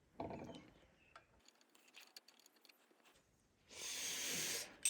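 A steady hiss lasting about a second near the end, after faint scattered ticks from small parts being handled, followed by a sharp click.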